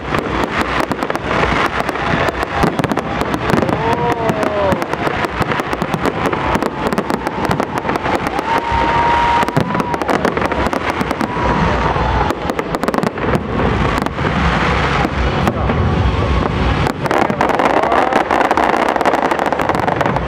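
Professional fireworks display: a continuous, rapid barrage of aerial shell bursts and crackling, with a few short wavering tones about four and nine seconds in.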